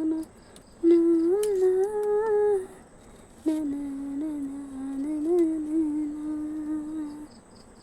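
A woman humming a tune in long, gently wavering held notes, in two phrases with a short pause between.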